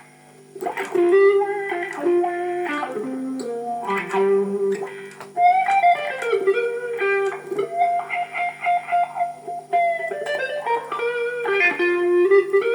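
Electric guitar played through an overdrive pedal and amplifier: a lead line of single notes, many of them held and sustaining.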